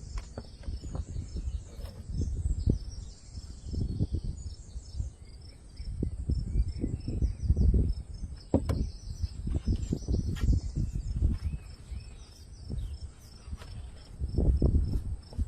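Crickets and other insects chirping steadily in a rapid high-pitched pulse, over uneven low rumbling and a few sharp clicks.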